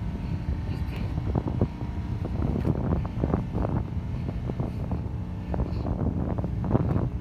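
Wind buffeting the microphone: a steady low rumble broken by irregular gusty flares.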